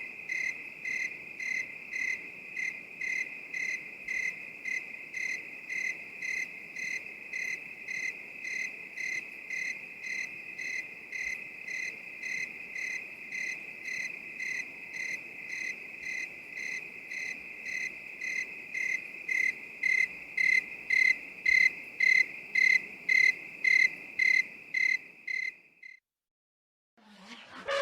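Crickets chirping in a steady, even rhythm of about two chirps a second over a continuous high trill, growing louder later on and cutting off suddenly near the end.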